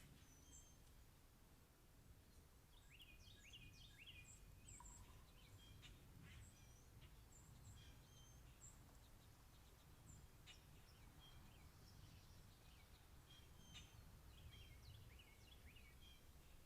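Faint birdsong: many short chirps and quick down-slurred notes from several small birds, scattered throughout, over a low steady rumble of background noise.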